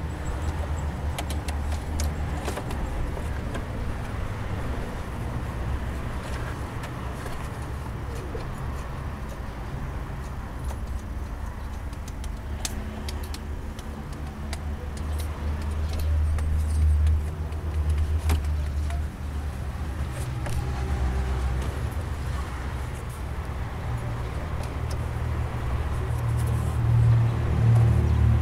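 Audi A4 B6 1.9 TDI four-cylinder diesel engine running, with a noise that the mechanic puts down to a faulty belt tensioner. Light clicks come and go over the steady low hum of the engine, which swells slightly a couple of times.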